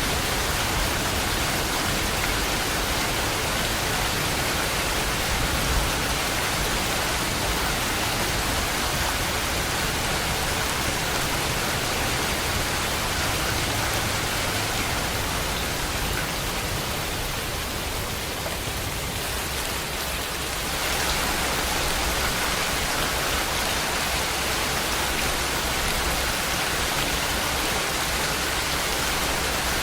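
Steady heavy rain falling on surfaces, an even hiss, easing a little for a few seconds past the middle before picking back up.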